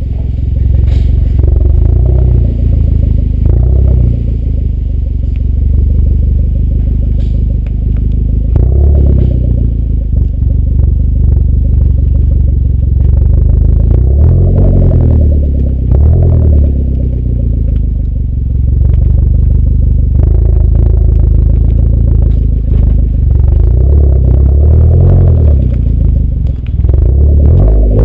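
Hyundai Genesis Coupe 2.0T's turbocharged four-cylinder engine and exhaust running loud and deep, its revs swelling and easing every few seconds.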